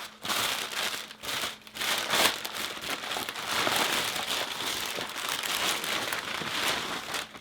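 Packing wrap crinkling and rustling as a parcel is unwrapped by hand, irregular and stop-start for the first couple of seconds, then nearly continuous.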